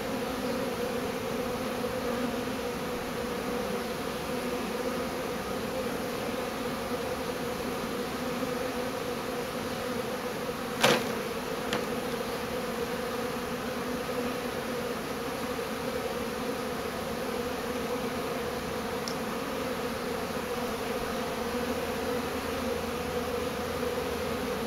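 Large honeybee swarm buzzing in a steady, dense hum. A single sharp click is heard about eleven seconds in.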